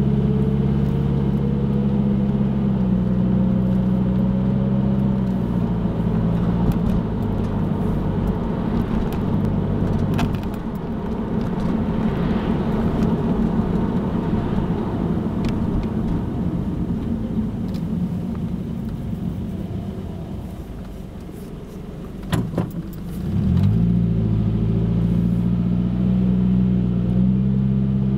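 A car's engine and road noise heard from inside the cabin while driving. The engine hum shifts down in pitch early on, grows quieter through the middle as the car slows for a light, then picks up again about 23 seconds in as the car pulls away.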